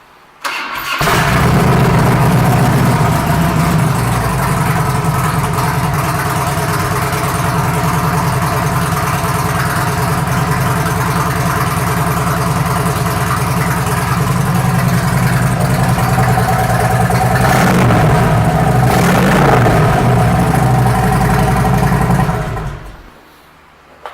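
A 2006 Harley-Davidson Road King Classic's Twin Cam 88 V-twin is started. It catches about half a second in and idles steadily. It is revved briefly a few times near the end, then switched off.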